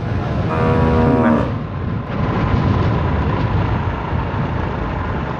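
Strong storm wind buffeting the microphone while riding a motorbike, a loud steady rumble. About half a second in, a steady pitched tone sounds for about a second, like a horn.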